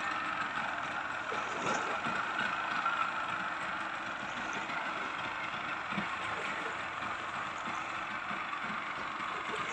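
An engine running steadily, a constant mechanical drone with no change in speed.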